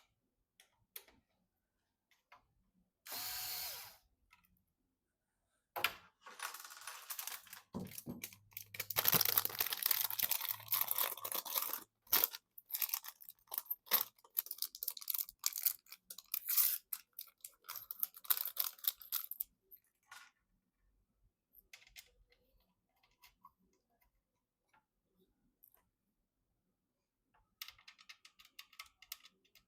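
Hardware handling noises: a short scrape, then about thirteen seconds of dense clicking, rattling and scraping of parts and tools, with a low hum for a few seconds in the middle, then scattered faint clicks.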